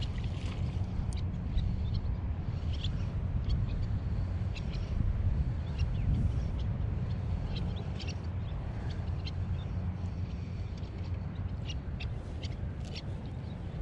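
Birds chirping and calling in short, irregular notes over a steady low rumble.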